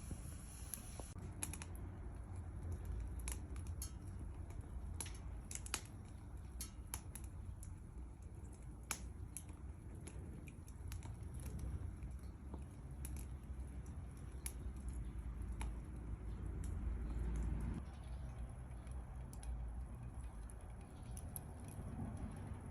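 Wood burning in a compact stainless-steel twig stove: irregular sharp crackles and pops over a low steady rumble.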